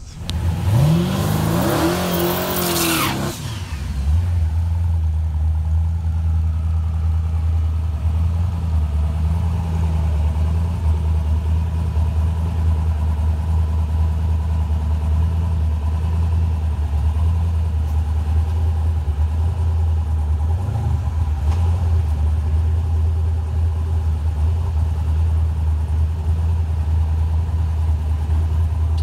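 Twin-turbo small-block Ford Windsor V8 in a Fox-body Mustang revs up and falls back with a loud hiss, then settles into a steady, even low drone that holds for the rest of the stretch. It begins to rise again at the very end.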